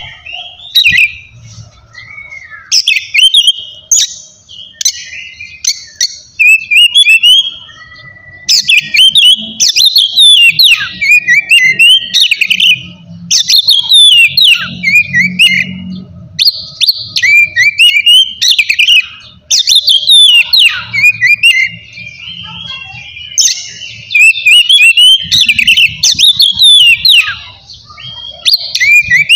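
Oriental magpie-robin (kacer) singing a loud, varied song of rapid whistles and trills, phrase after phrase with short breaks between them.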